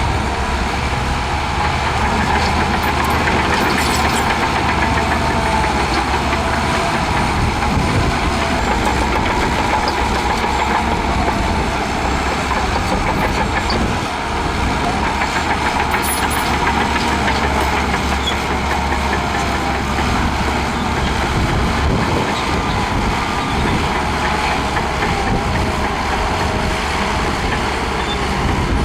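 Diesel engine of a Shantui DH17C2 crawler bulldozer running steadily, with a brief dip in level about halfway through.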